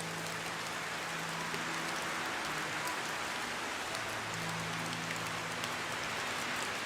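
Steady rain falling, an even hiss of many drops with small scattered patters, and faint held low tones underneath.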